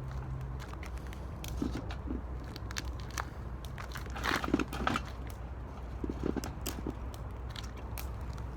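Wood fire crackling in a metal can: irregular sharp pops and snaps, with a louder flurry of crackles about four seconds in, over a steady low hum.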